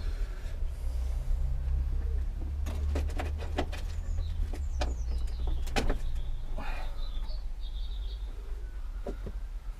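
Scattered clicks and knocks from handling metal tools and the workpiece while getting ready to cut, over a steady low rumble. A small bird chirps in the background.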